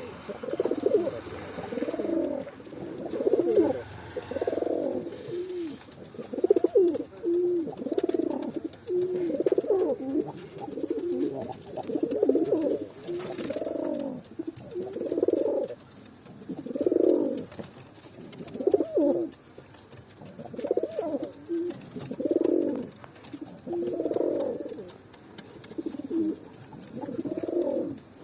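Domestic pigeons cooing: low, warbling coos repeated one after another, about one every one to two seconds.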